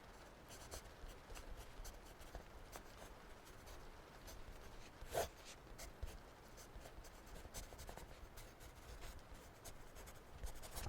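Faint scratching of writing on paper, in short irregular strokes, with one louder tap about five seconds in.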